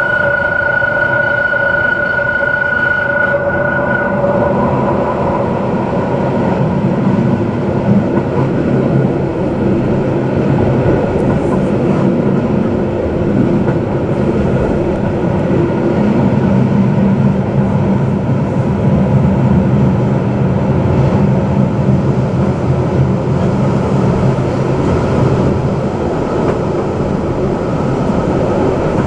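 Matterhorn Gotthard Bahn passenger train running, heard from inside the carriage: a steady rumble of wheels and running gear on the rails. A high steady whine sounds over it for the first few seconds, then fades out.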